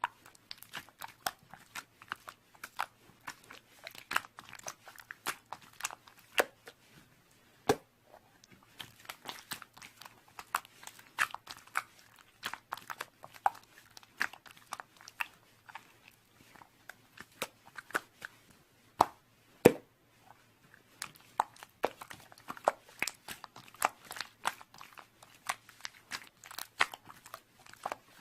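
Slime being squeezed and stretched by hand: a dense, irregular run of small sticky clicks, pops and crackles, with a couple of louder pops.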